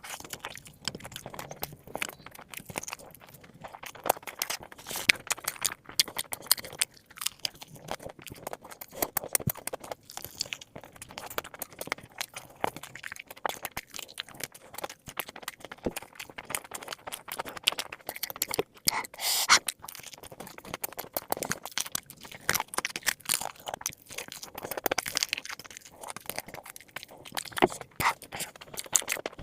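Close-miked crunching and chewing of crispy fried chicken drumsticks, with irregular crackly bites and wet mouth sounds throughout.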